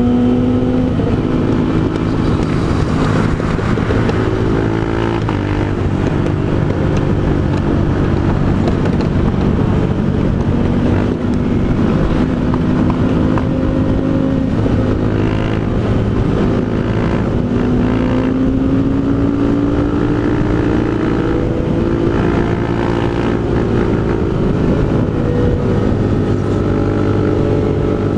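Honda Fan 160 single-cylinder engine running through an aftermarket Pro Tork GP Competition exhaust while under way. The pitch climbs slowly several times and drops back between the climbs, as the bike speeds up and changes gear.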